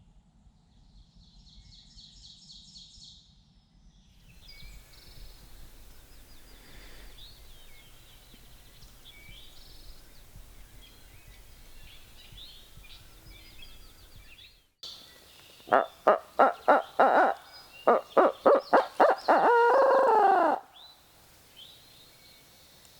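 Barred owl hooting close by: two quick runs of about ten loud hoots, ending in one long falling note, the rolling 'who-cooks-for-you-all' call. Small songbirds chirp faintly before it.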